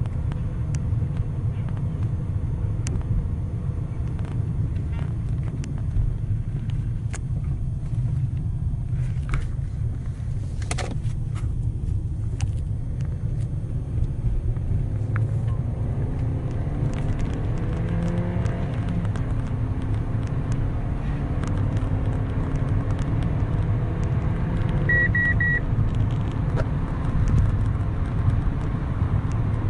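Fiat Stilo 1.2's four-cylinder petrol engine and road noise inside the cabin while driving: a steady low rumble, with the engine note rising gradually from about halfway as the car accelerates. Near the end come three short beeps, the instrument cluster's warning that the set speed has been exceeded.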